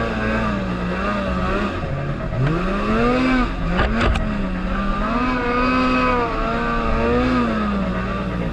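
Car engine revving up and down, its pitch rising and falling again and again, with a couple of sharp clicks about four seconds in.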